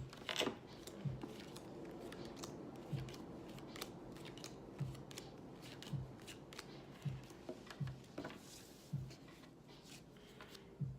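Playing cards being shuffled and dealt by hand: a run of irregular crisp snaps and flicks, with soft dull taps as cards land roughly once a second.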